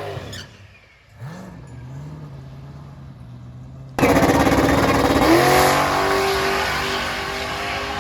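Drag racing engines. In the first half an engine revs up briefly and then runs at a steady idle. At about four seconds the sound jumps suddenly to a much louder engine at full throttle, its pitch climbing as it accelerates.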